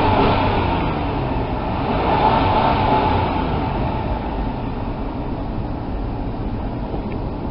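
Minivan V6 engine idling steadily with no ticking. The fresh spark plugs replaced loose rear plugs, which the owner took for the cause of the earlier tick.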